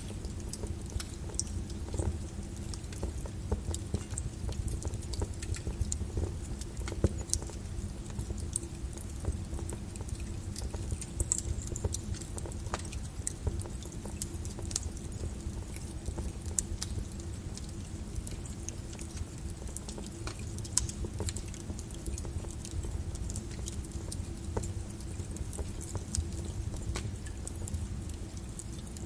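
Layered rain and log-fire ambience: a steady low rumble of rain with many scattered sharp crackles and pops from a burning fire.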